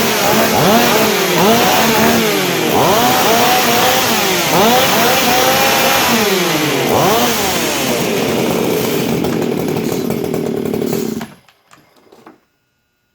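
West Coast modified Stihl MS 440 (044) two-stroke chainsaw being revved again and again, its pitch climbing and falling with each blip of the throttle. About seven seconds in it settles into a steady run. It cuts off suddenly near the end as the saw is shut down.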